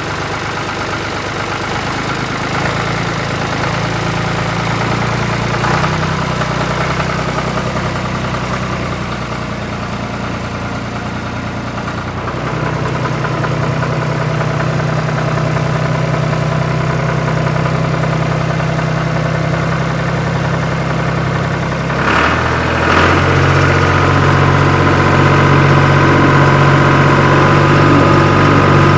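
Tractor engine running steadily. About three quarters of the way in, a couple of brief knocks are followed by a louder, higher engine note.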